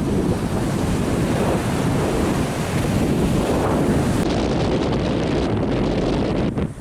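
Strong wind buffeting the microphone over the rush of high surf, a loud, steady noise with no speech. The sound dips for an instant just before the end.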